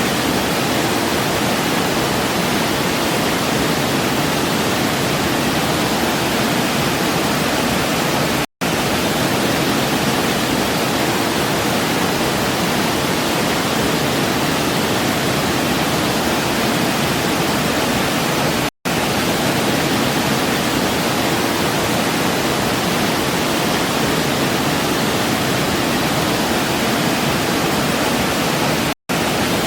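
Waterfall rushing steadily, a dense even hiss of falling water. It is broken by brief dropouts to silence about every ten seconds.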